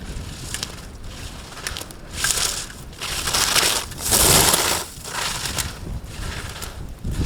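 Ski edges scraping and hissing on hard-packed snow as a racer carves slalom turns, one surge of scraping per turn about a second apart. The loudest surge comes about four seconds in.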